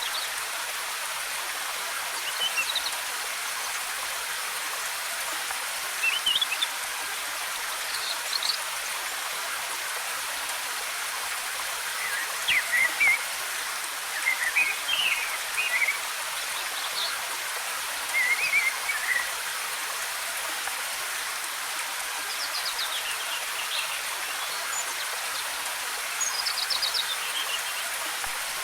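Steady rush of a waterfall, with forest birds chirping and trilling in short phrases every few seconds.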